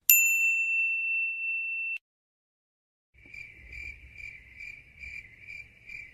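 A bright, high 'ding' sound effect rings out at the start and cuts off abruptly after about two seconds. After a second of silence, a cricket-chirping sound effect begins, a high chirp repeating about twice a second over a faint low rumble: the 'crickets' awkward-silence gag.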